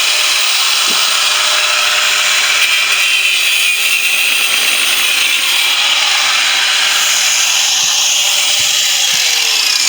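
Corded angle grinder cutting into the steel shell of a refrigerator compressor, a steady loud grinding that sags slightly in pitch near the end.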